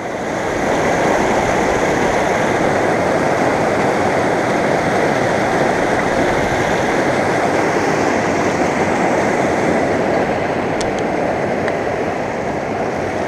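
Rushing river water, a loud, steady rush heard close up.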